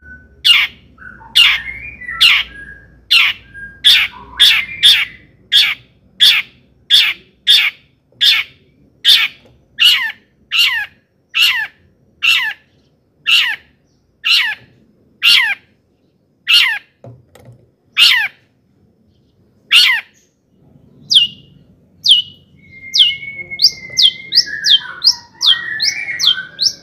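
Long-tailed shrike singing vigorously: a long series of harsh, falling notes, about one or two a second, spacing out through the first two-thirds. After a short pause, quicker short falling notes follow with a warbling phrase beneath them.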